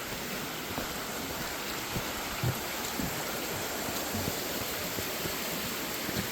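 Creek water running steadily, an even rushing of water, with a few short soft thumps about halfway through.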